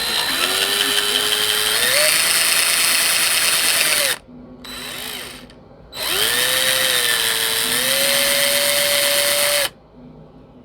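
Power drill with a 1/4-inch bit widening the worn, stripped neck-joint screw holes of a 1966 Harmony Bobkat guitar to take dowels. It runs in two stretches of about four seconds each, with a brief weaker blip between them. The motor's whine steps up in pitch partway through each run.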